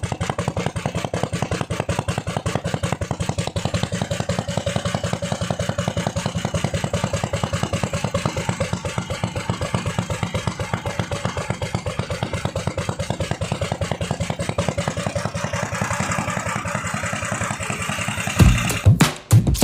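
Ketinting longtail-boat engine running steadily, its firing beats coming evenly and fast. Music comes in near the end.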